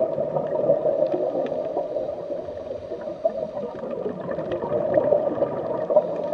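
Underwater bubbling and gurgling water, a steady churning hiss sprinkled with many small clicks and pops.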